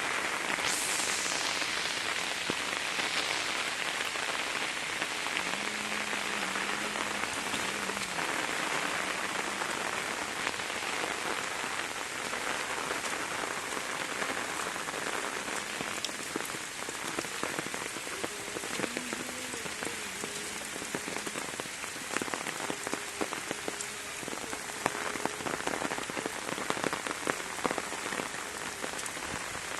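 Steady monsoon rain falling and pattering on surfaces, with sharp individual drop hits. A faint low tone comes and goes now and then.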